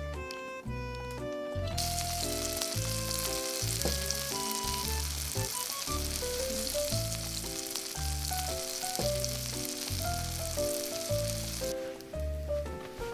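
Batter-coated spring-cabbage (bomdong) leaves sizzling as they fry in oil in a pan. The sizzle starts about two seconds in and stops a little before the end, over background music with a steady bass beat.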